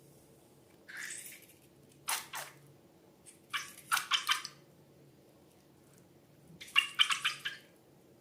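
Wet slime squishing and crackling with small popping sounds, in a few short bursts of several quick squelches each.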